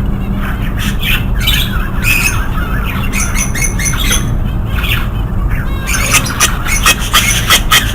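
Budgerigar chicks squawking with harsh, rapid calls that come thicker and faster in the last two seconds, over a steady low hum.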